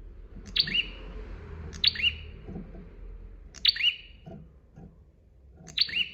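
A prinia (prenjak) calling four times, each call a loud, sharp, quick double chirp. A low steady hum runs underneath.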